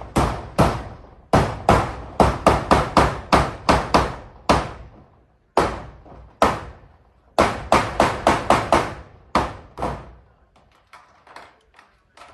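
Hammer driving nails into zinc roof sheeting: quick runs of sharp, ringing blows at about three a second, broken by short pauses, turning to lighter taps near the end.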